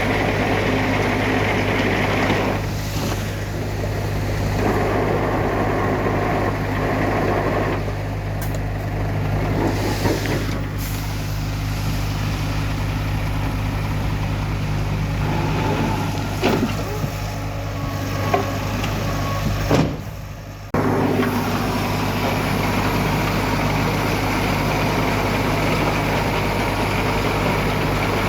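Heavy diesel earthmoving machinery running steadily with a deep engine hum, with a few sharp metallic knocks in the second half and a brief drop in the sound about two-thirds of the way through.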